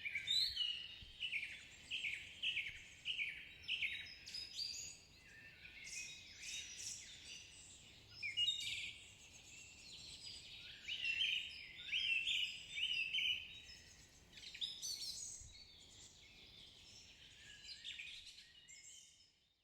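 Songbirds chirping and singing, a busy run of quick repeated notes from more than one bird over a faint low hiss, fading out at the very end.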